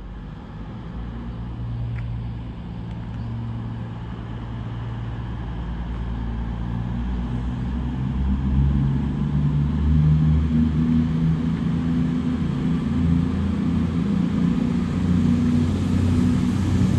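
Two coupled Class 220 Voyager diesel multiple units pulling away, their underfloor diesel engines running under power and steadily growing louder as the train accelerates past.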